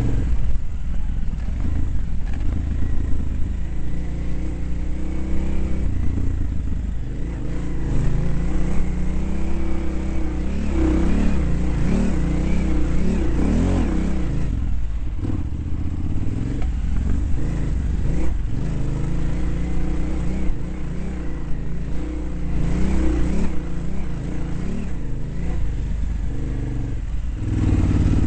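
Dirt bike engine being ridden around a track, its pitch rising and falling as the throttle opens and closes, over a steady low rumble.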